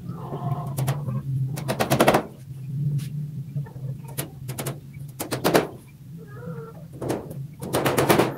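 Short rapid runs of sharp clicking knocks, several in quick succession each time, about four separate runs, over a steady low hum.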